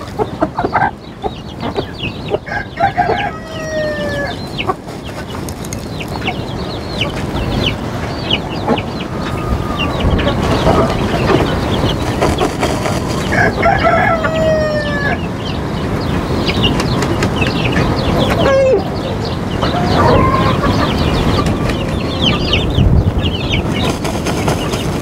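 Poultry flock clucking and calling in the yard, with a rooster crowing twice, about three seconds in and again around fourteen seconds, each a falling call of about a second and a half.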